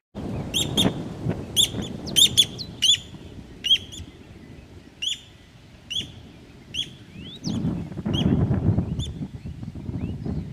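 A bird calling repeatedly with short, sharp, high notes, about two a second, thinning out after about seven seconds, over a low rumble that grows louder near the end.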